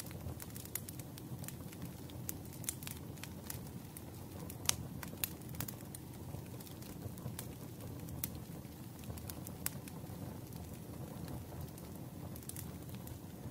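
Crackling wood fire: irregular sharp pops and snaps over a steady low rumble of burning, with a louder pop about five seconds in.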